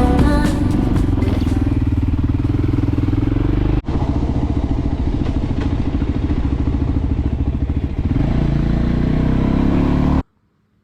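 Voge 300 Rally's single-cylinder motorcycle engine running with a steady, even pulse at low revs, with a brief dropout about four seconds in and the revs picking up near eight seconds. The sound cuts off abruptly shortly before the end.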